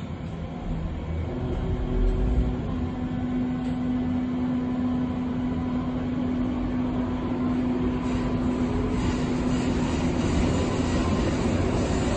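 Berlin U-Bahn U3 train running between stations: a steady rumble of wheels on track, with a steady hum from about a second and a half in until near the end.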